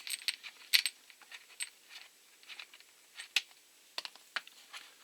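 Irregular light clicks and clinks of small metal and plastic chainsaw parts being handled as the saw's handle is taken apart.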